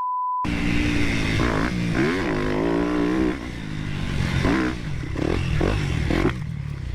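A short electronic beep, then a dirt bike engine revving hard, its pitch climbing and dropping repeatedly as the rider works the throttle and gears.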